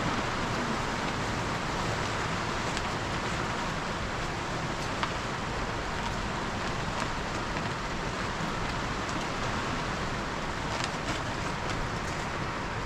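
Steady rain falling, with a few sharper drop ticks here and there.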